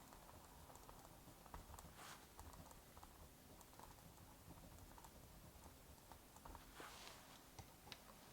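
Near silence with faint, irregular small clicks and a few crackles over a soft steady hiss.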